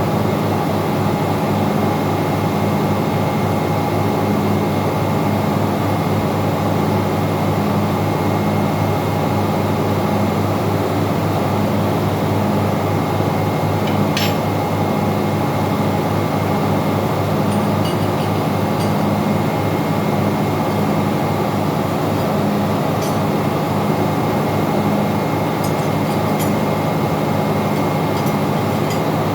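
Steady engine-room machinery running loudly, with fixed tones and a low hum that pulses about once a second. One sharp metallic click comes about halfway, and a few faint ticks come near the end.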